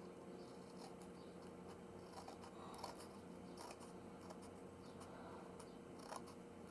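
Scissors snipping through paper: faint, irregular cuts.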